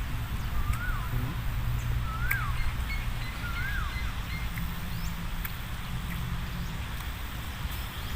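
A bird calling outdoors, three short rising-then-falling whistles about a second and a half apart, with a few fainter chirps, over a steady low rumble.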